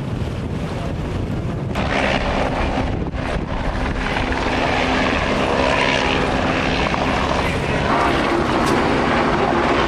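Helicopter flying close by, its rotor and engine steady and growing gradually louder.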